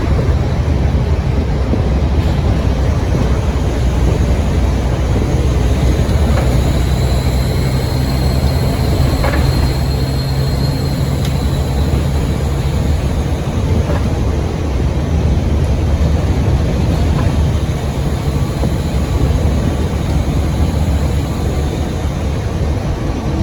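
Scania N230UD OmniCity double-decker bus engine running under way with a steady low drone. A high turbo whistle comes in about six seconds in and fades out around eleven seconds.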